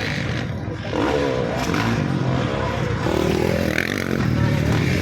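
Motocross bikes racing, their engines revving up and down.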